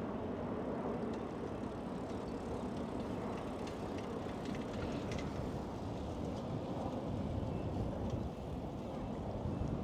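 Steady outdoor background noise with a low rumble, and a few faint clicks in the middle.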